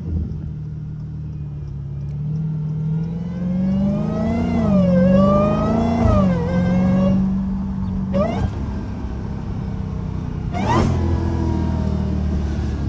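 Straight-piped Dodge Challenger Hellcat's supercharged 6.2-litre Hemi V8 exhaust under acceleration. The engine note climbs from about two seconds in, dips briefly, climbs again, then drops at about six seconds and settles to a steady drone. Two short sharp rises in pitch come later.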